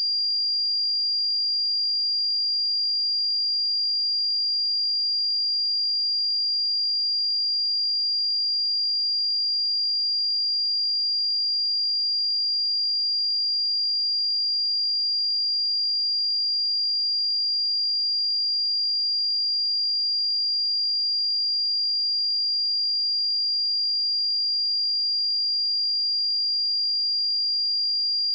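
Steady pure sine-wave test tone at 4783 Hz, one unwavering high-pitched whistle at constant loudness, used for testing speakers and headphones.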